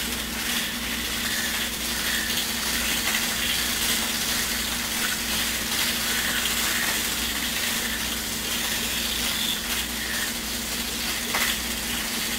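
Aquarium filter and pump running: a steady watery hiss over a constant low hum.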